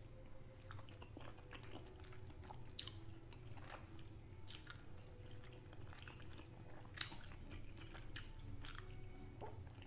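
Faint, close-miked chewing and wet mouth sounds from someone eating soft shellfish meat dipped in a creamy sauce, with scattered small clicks and smacks. One smack about seven seconds in is louder than the rest.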